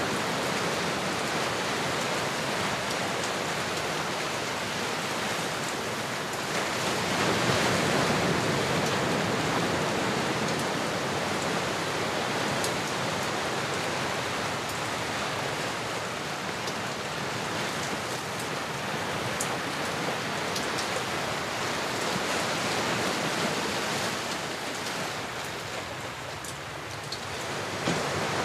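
Ocean waves: a steady wash of surf with no breaks, swelling louder about seven seconds in and ebbing shortly before the end.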